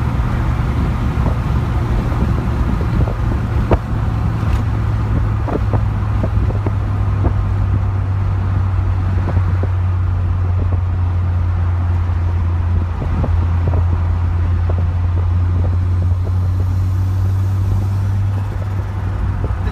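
Ford Sierra Sapphire's engine running at steady cruising revs, a constant low drone heard from inside the cabin, with road noise and a few light clicks.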